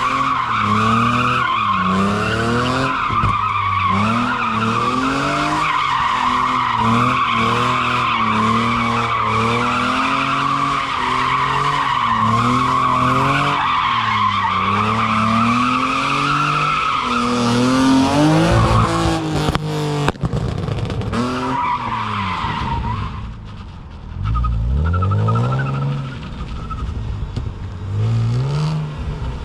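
Car drifting: the engine revs rise and fall repeatedly while the rear tires squeal steadily through a long slide. About two-thirds of the way through the tire squeal dies away and only the engine revving up and down goes on.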